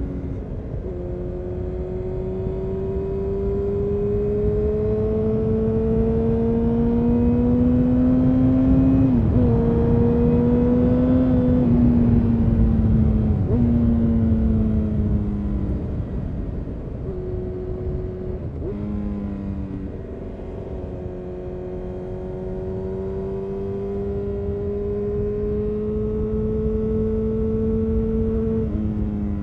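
2000 Honda CBR929RR Fireblade's inline-four engine running through an Erion Racing full exhaust under way. Its pitch climbs slowly under throttle and steps down sharply about nine seconds in. It then falls away off the throttle, with a couple of short breaks, climbs again for several seconds, and drops near the end.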